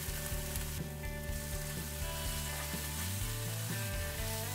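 Chopped onion, capsicum and tomato ketchup sizzling steadily in oil in a cast-iron skillet, with a wooden spatula stirring and scraping the mixture toward the end.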